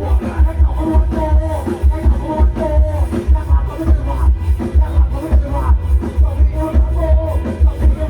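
Loud music from a rot hae sound truck's speaker stacks: a heavy, evenly pulsing bass beat with a melody line above it.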